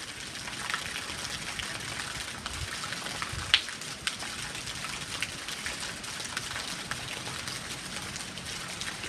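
Steady rain at night, with many separate drops ticking and splashing through the hiss, and one louder drip splash about three and a half seconds in.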